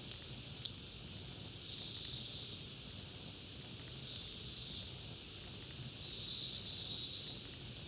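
Campfire crackling: a steady hiss with scattered sharp pops and one louder snap about half a second in. A buzzy high trill, like an insect or bird, comes and goes three times.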